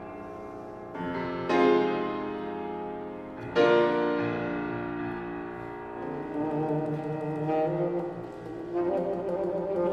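Alto saxophone and piano playing a classical sonata. Piano chords are struck about a second in, again soon after, and once more near the middle, each ringing out. Sustained saxophone notes follow in the second half.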